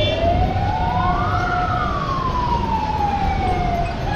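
A siren wailing: one slow rise in pitch over about a second and a half, then a long slow fall, over a steady low rumble.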